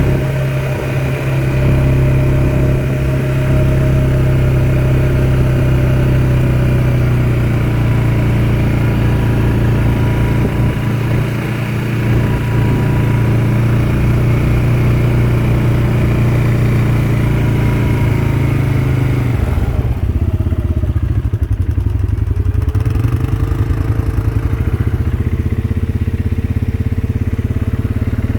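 ATV engine running steadily under way, a constant loud drone. About two-thirds of the way through its tone changes, the higher part of the sound falling away and the pitch shifting slightly.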